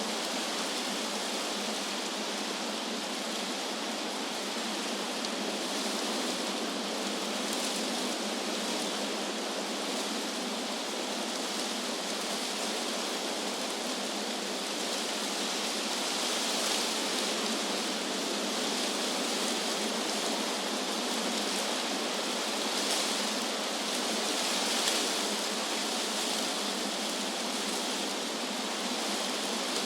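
Wind blowing through trees, a steady rushing hiss of leaves with a few gentle swells.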